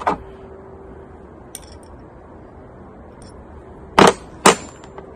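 Sharp metallic clinks of small steel hex-head bolts being handled and tried against a spanner, with two loud clinks half a second apart about four seconds in. Low steady background noise runs underneath.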